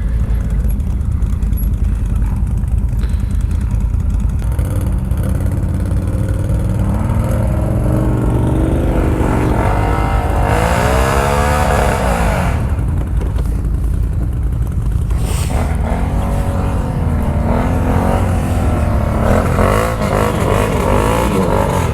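ATV engine running with a steady low rumble, its revs rising and falling several times as it picks its way downhill.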